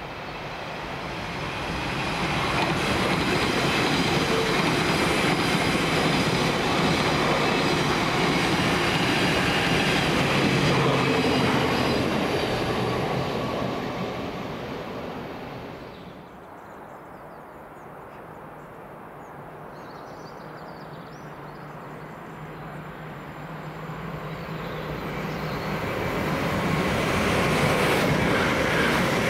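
A train passing on the main line: the rail and wheel noise builds over the first few seconds, stays loud for about ten seconds and fades away. Near the end another train is heard approaching, growing louder.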